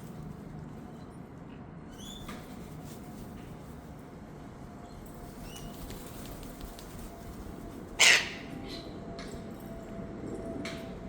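Wild cockatoos foraging after a feed: a few small chirps and scattered light clicks over a low background, and one short harsh squawk about eight seconds in, much the loudest sound.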